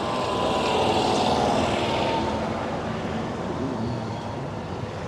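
An engine passing by, swelling about a second in and then fading, with a faint, slowly falling whine.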